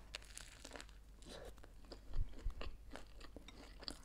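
Close-up biting and chewing of a toasted grilled sandwich: a run of crisp crunches from the toasted bread, with a couple of duller thuds about halfway through.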